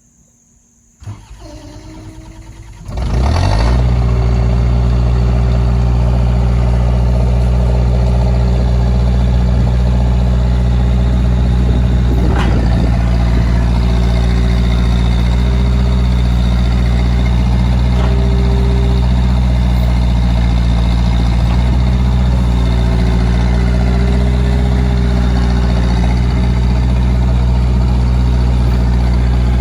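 New Holland skid steer's diesel engine being started: the starter cranks for about two seconds, the engine catches about three seconds in, then it settles into a loud, steady idle.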